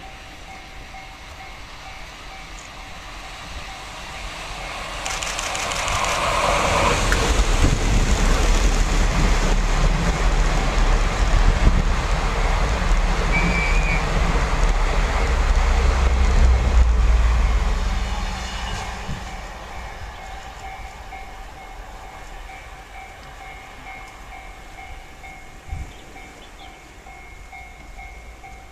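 Twilight Express sleeper train passing through the station: its diesel locomotives and the wheels on the rails build up over a couple of seconds, run loud with a deep rumble for about twelve seconds, then fade away.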